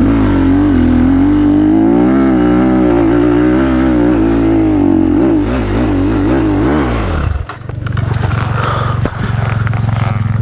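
Enduro dirt bike engine revving hard under load on a hill climb, the revs surging and wavering. About seven seconds in it drops off and settles to a steady lower running note.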